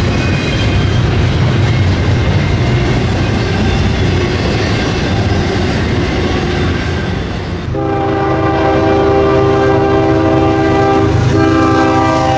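Freight train rumbling and clattering past. About two thirds in, a diesel locomotive's multi-chime air horn begins a long chord, breaks off briefly near the end, then sounds again.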